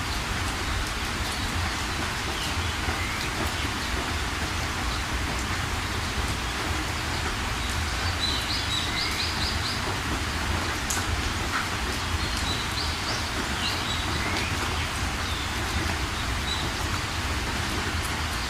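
Steady rain falling, with small birds chirping over it in short calls and quick runs of repeated notes, clearest about eight seconds in and again a few seconds later.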